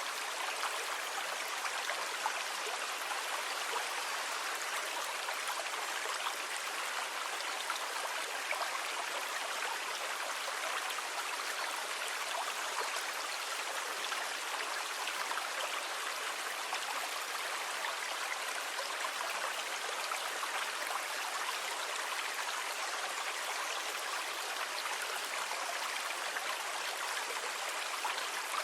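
Sea water washing steadily: an even rushing, fizzing hiss with no distinct wave swells.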